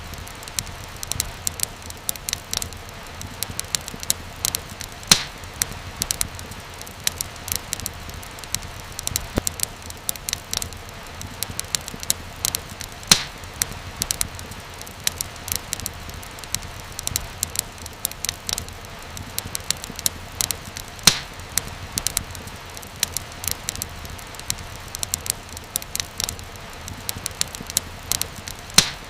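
Wood fire crackling: a steady hiss with many small snaps and a louder pop about every eight seconds.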